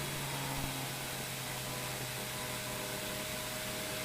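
Steady even hiss with a faint, constant low hum underneath.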